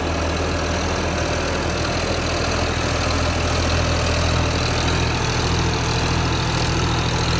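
Tractor diesel engine running steadily under load, a little louder in the second half.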